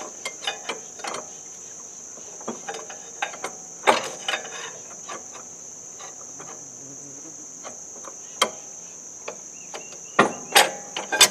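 Scattered metal clinks and knocks of tools and parts as a tractor driveshaft is worked back into line by hand, with the loudest cluster near the end.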